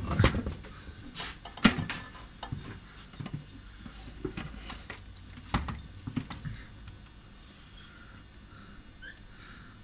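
Scattered knocks, clicks and rubbing of objects being handled, uneven and irregular, with a sharper knock about one and a half seconds in and another near the middle.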